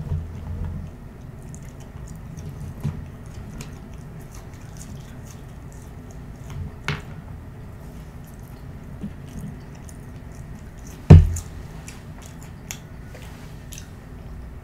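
Close-miked chewing of french fries, with many small wet mouth clicks. One loud dull thump about eleven seconds in.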